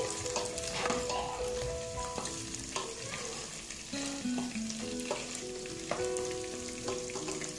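Beef and onions sizzling as they fry in oil in a metal pot, with a spoon scraping and stirring through them now and then; a quiet melody plays underneath.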